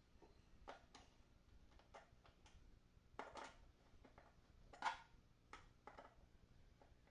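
Faint, scattered clicks and taps of small parts and tools being handled, with one sharper knock about five seconds in.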